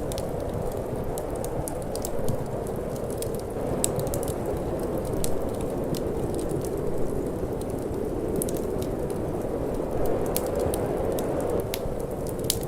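Wood fire crackling with frequent small, sharp pops, over a steady rushing wind that swells and eases a little.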